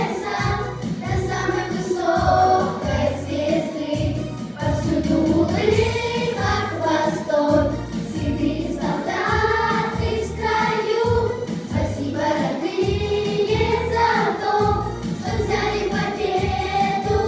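Children's vocal ensemble singing together over a backing track with a steady beat.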